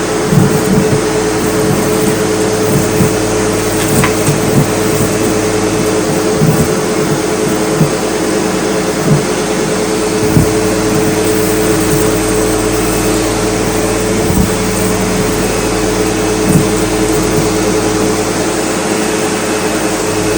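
SEBO Automatic X4 bagged upright vacuum cleaner running steadily, its suction hose and wand picking up chunks of debris, with irregular knocks and rattles as pieces are drawn in.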